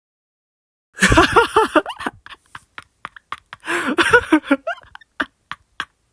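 A man's voice laughing in two bursts, about a second in and again near four seconds in, trailing off into short, clipped snickers.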